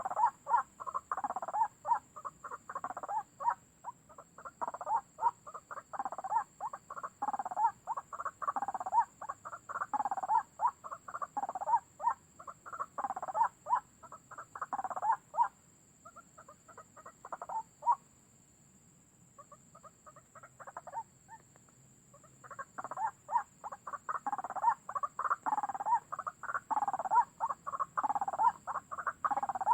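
White-breasted waterhen calls: rapid, harsh, repeated croaking notes, several a second, which break off for several seconds past the middle and then resume.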